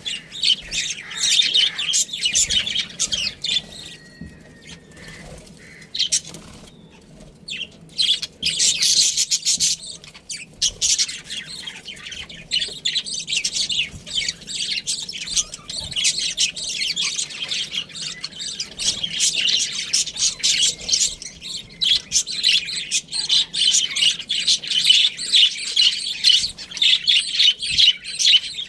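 Budgerigars chirping and warbling, a dense run of rapid high chirps that goes quieter for a few seconds near the start, then picks up again.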